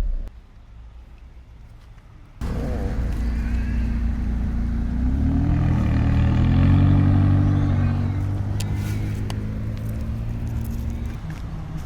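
A car engine running close by after a sudden start about two seconds in. Its pitch rises as it accelerates to a peak around the middle, then it eases off and fades a little.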